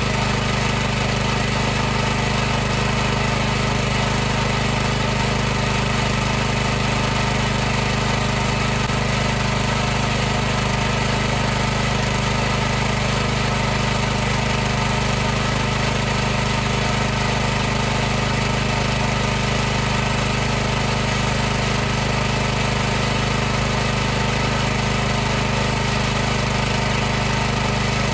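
High-pressure washer running steadily, its motor and pump giving a constant, unchanging hum with no rise or fall in pitch.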